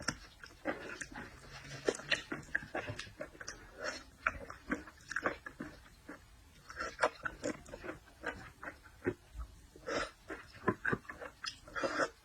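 Close-miked eating sounds from a person eating seafood: irregular wet chewing, lip smacks and short slurps, with a brief pause about halfway through.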